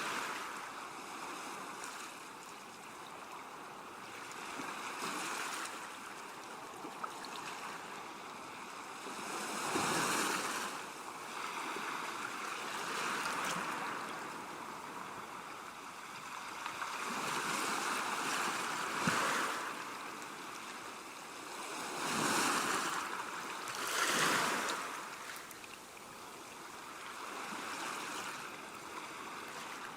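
Sea waves washing and breaking on the shore, a steady rush that swells into louder surges every few seconds, the strongest about two-thirds of the way through.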